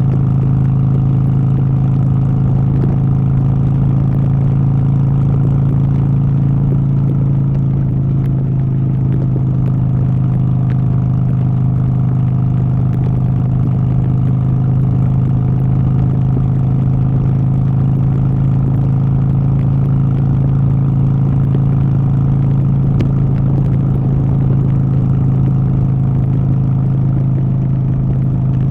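An engine running steadily at a constant speed: a continuous drone that does not change in pitch or loudness.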